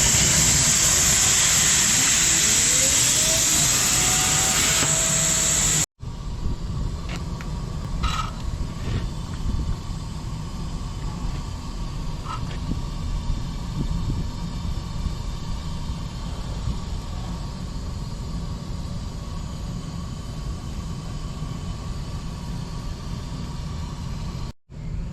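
Industrial laser cutting machine running. For the first several seconds a loud high hiss plays over whines that rise and fall as the machine moves. After an abrupt cut, a quieter steady low hum follows, with a few faint clicks.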